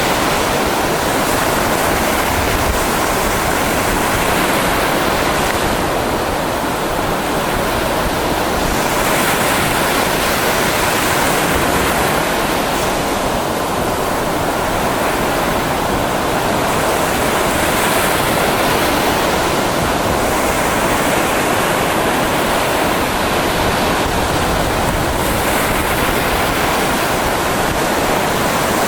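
Mediterranean sea surf washing on the shore: a loud, steady rush of water whose hiss swells and eases every several seconds.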